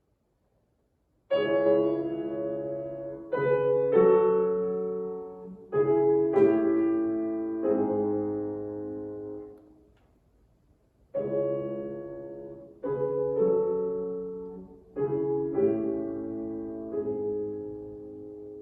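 Piano playing slow, sustained chords that ring and fade. It begins about a second in, after a brief silence, and plays two phrases with a short pause between them.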